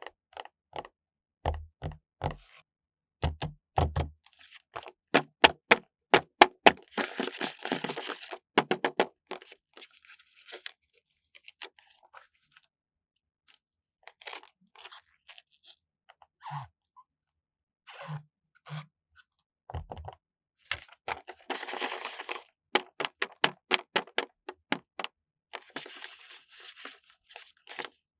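Stickers being handled close to the microphone: quick crisp crackles and clicks as sticker sheets are worked, broken by three longer rasping stretches as stickers are peeled off their backing. There are a few soft low thumps, mostly in the first few seconds, as stickers are pressed down.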